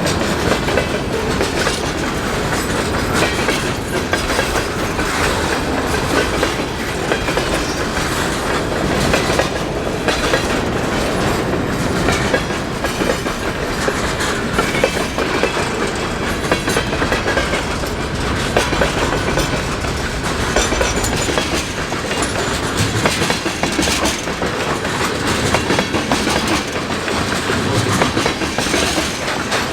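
Freight cars of a passing mixed freight train rolling by, wheels clacking steadily over rail joints and crunching over ice-coated railheads.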